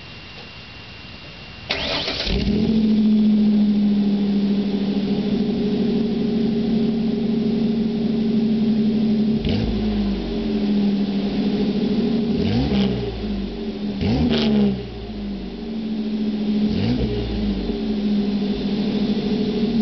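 Truck engine cranking and firing up just under two seconds in, then idling steadily through its exhaust. The throttle is blipped four or five times, each rev rising and dropping back to idle.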